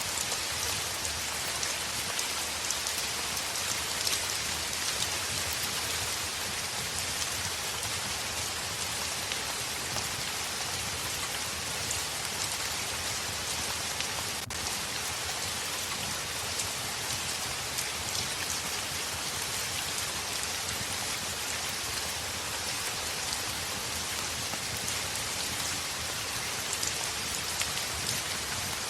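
Heavy rain on a window: a steady, dense hiss dotted throughout with sharp little ticks.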